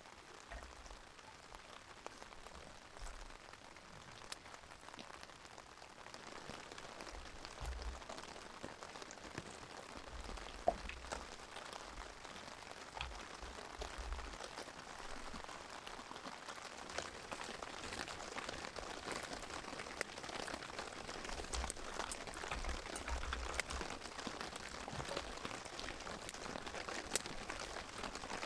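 Rain falling steadily, with many small drops ticking on nearby surfaces and a few heavier single drops; it grows a little louder toward the end.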